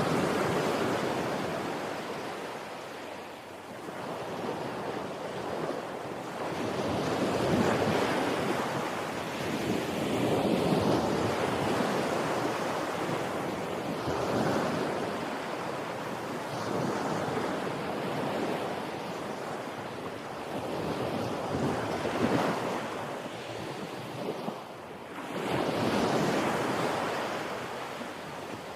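Ocean waves washing in, a steady rush that swells and falls away every few seconds.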